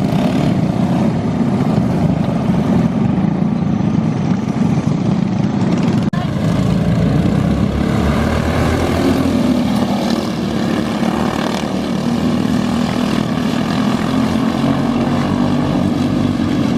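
Box stock outlaw dirt kart's single-cylinder engine running hard at racing speed, a steady loud drone with a short break about six seconds in.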